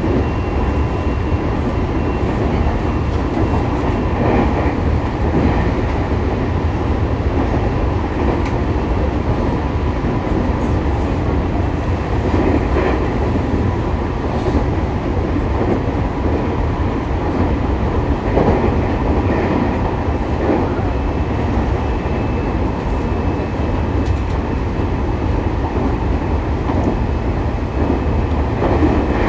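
Running sound inside a JR East E501 series electric train's motor car at steady speed: a continuous rolling rumble with a faint steady whine, and now and then a clack from the rails.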